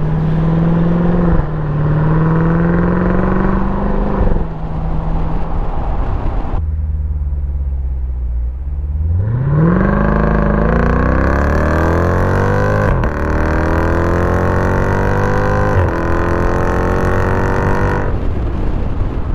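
Jeep Grand Cherokee SRT's 6.4-litre HEMI V8 through a mid-muffler-delete 3-inch X-pipe exhaust, accelerating in gear with an upshift about a second in, then settling to a low steady drone. About nine seconds in it goes to wide-open throttle, pitch climbing hard through two upshifts, and it lifts off near the end.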